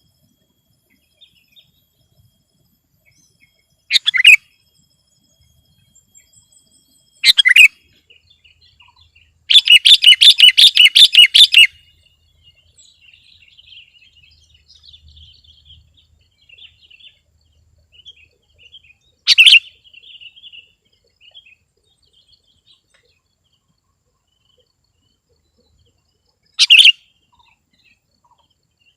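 Sooty-headed bulbul calling: short, loud phrases every few seconds, with a fast run of repeated notes about ten seconds in, and fainter chirps between them.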